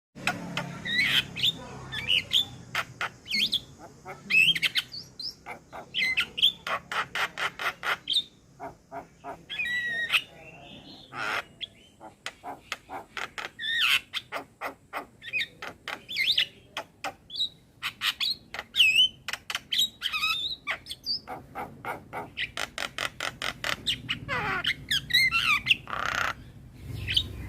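Male Javan myna (jalak kebo) singing a varied, continuous song: rapid runs of sharp clicking chatter mixed with short squawks and bending whistled notes.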